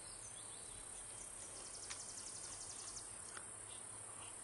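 Faint, steady, high-pitched insect buzz, with a rapid high trill of about a dozen notes from roughly one to three seconds in, and a few faint high chirps.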